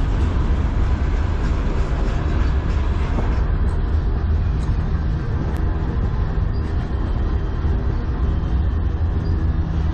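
Freight cars of a slow-moving manifest train rolling past: a steady low rumble of steel wheels on the rails.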